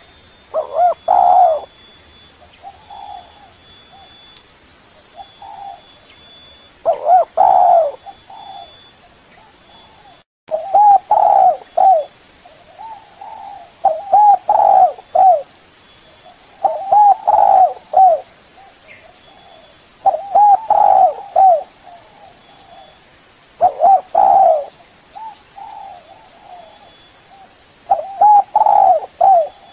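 Spotted dove cooing: loud phrases of low, gliding coos repeat every few seconds, with softer coos in between. The sound cuts out briefly about ten seconds in.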